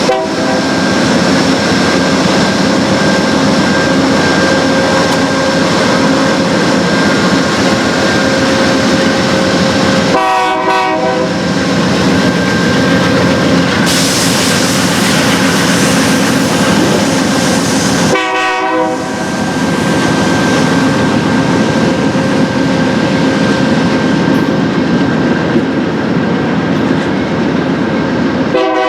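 Amtrak Southwest Chief passenger train running close by: a steady, loud rolling rumble with clickety-clack of the wheels and a constant ringing tone from the wheels on the rail. Short pitched bursts of about a second sound around ten seconds in, around eighteen seconds in, and again at the end.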